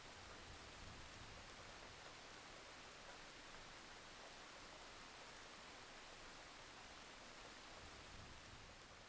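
Faint, steady rain, an even soft hiss, easing off slightly near the end.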